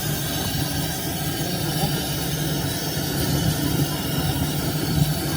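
Workshop machinery running steadily: a low hum under an even, noisy hiss.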